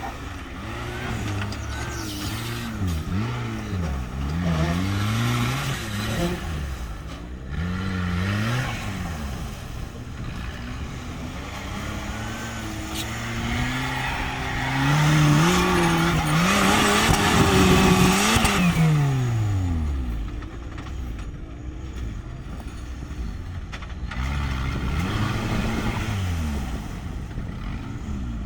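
Off-road 4x4's engine revving hard and unevenly, its pitch climbing and dropping again and again as the throttle is worked. It is loudest about two-thirds of the way through, with a long rise, then falls away sharply.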